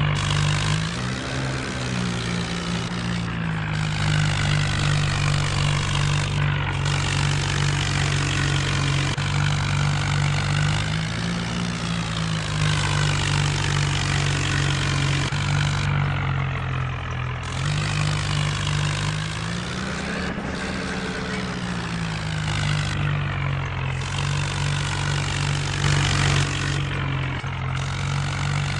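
John Deere tractor's diesel engine running steadily under way, its pitch rising and falling back briefly three times, about a second in, around the middle and about two-thirds through.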